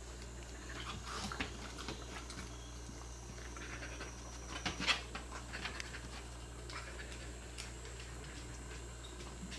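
A cat eating wet food: small wet chewing and licking smacks in clusters, busiest about a second in and again around five seconds in.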